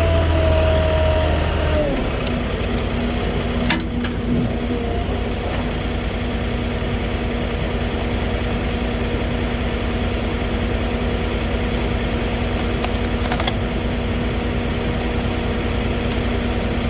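Engine running at raised speed for about two seconds, then dropping to a steady idle, with a few short clicks and knocks over it.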